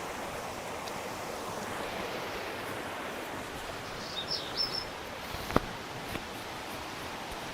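Steady rushing forest ambience, water or wind-like, with a brief run of high bird chirps about four seconds in. A single sharp click or snap comes about five and a half seconds in.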